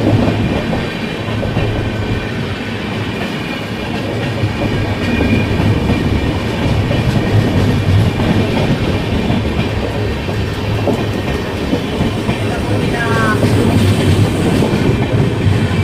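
Mahabodhi Express passenger train running through a station at speed without stopping, its coaches rolling past in a loud, steady clatter of wheels on rail.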